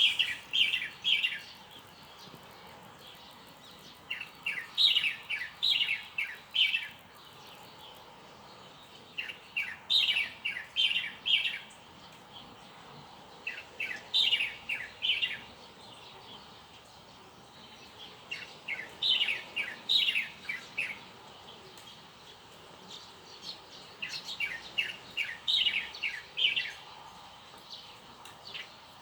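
A songbird singing a repeated phrase about every four to five seconds: each phrase is a quick run of six to eight high, downward-sliding notes.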